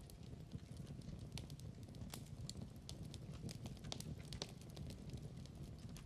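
Wood fire crackling in a fireplace: a steady low rumble under many sharp irregular pops and snaps.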